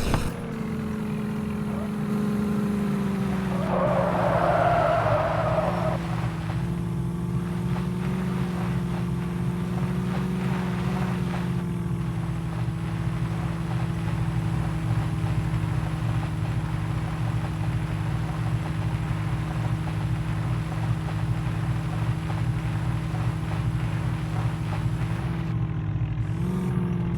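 Tractor diesel engine running hard at steady high revs, as in a tug-of-war pull, its pitch sagging a little early on and rising again near the end. A brief higher-pitched sound cuts in about four seconds in.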